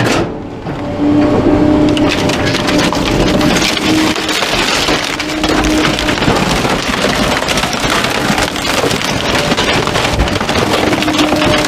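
Garbage truck's compactor crushing bulky items, with wood cracking and splintering continuously under the packer blade, over a steady hum from the truck's machinery.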